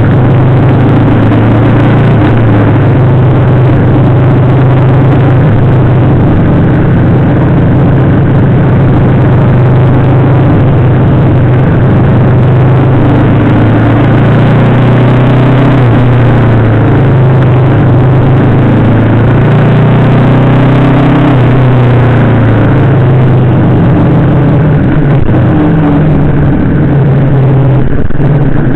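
Yamaha VMAX 1700's V4 engine running, heard from a camera mounted on the bike, loud and steady. Its note shifts up and down through the middle as the revs change.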